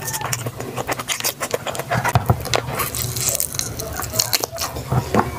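Close-miked chewing and lip-smacking from a mouthful of rice and fried food eaten by hand: a quick run of wet mouth clicks and smacks.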